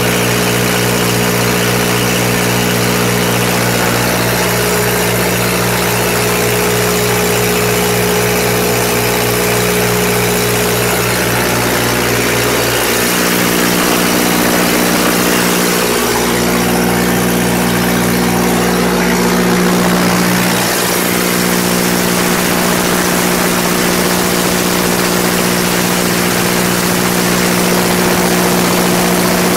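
Kohler natural-gas generator set with a Ford four-cylinder engine running at a steady governed speed, an even mechanical drone. Partway through, its deepest rumble drops away while the engine note stays the same.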